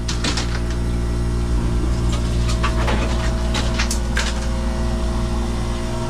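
Hoshizaki ice machine running with its newly replaced compressor: a steady low hum, with a few light clicks and clinks scattered through, the machine working normally and making ice.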